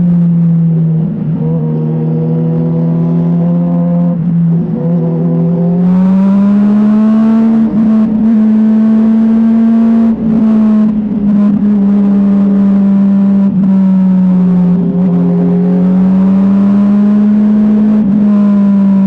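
Motorcycle engine running while riding. Its note holds steady, dropping and climbing again twice as the throttle and speed change.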